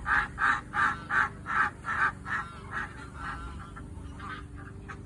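Domestic waterfowl giving a rapid run of loud honking calls, about three a second. The calls fade away after about two and a half seconds and are followed by softer scattered calls.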